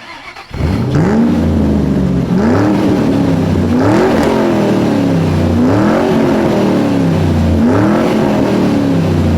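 Motor vehicle engine being revved in repeated blips: about five times the pitch climbs and falls back toward idle, at intervals of a second and a half to two seconds. It starts abruptly and cuts off abruptly.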